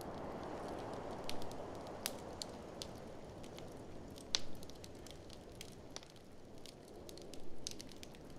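Wood fire crackling, with many sharp snaps and pops scattered irregularly, the loudest about four seconds in. Under it runs a low steady rush that eases off over the first half.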